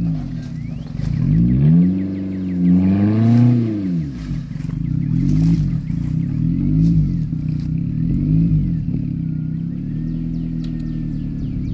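Car engine revved: one long rise and fall in pitch, then three shorter blips of the throttle about a second and a half apart, settling back to a steady idle.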